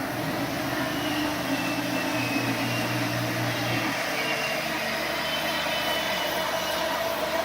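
Machine tool running steadily while turning an 820 mm diameter seat for a hardened liner: a continuous mechanical noise with a low hum and faint whining tones over it.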